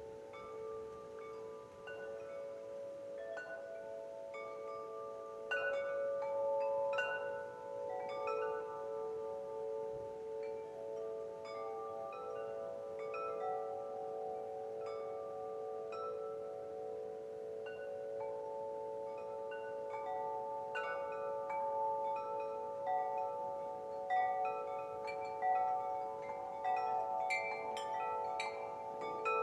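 Wind chimes ringing, struck at irregular moments, their tones overlapping and sustaining into one another. The strikes come more thickly a few seconds in and again near the end.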